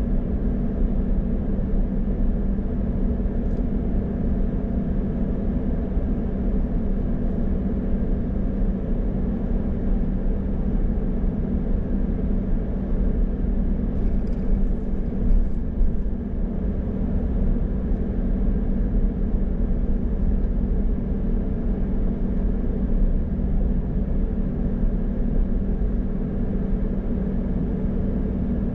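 Car driving: a steady low drone of engine and road noise, with a few faint ticks about halfway through.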